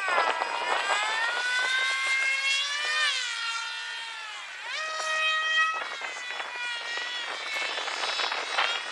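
Electric RC model airplane motor and propeller whining overhead, its pitch gliding with throttle and passes: falling about three seconds in, then jumping back up near five seconds.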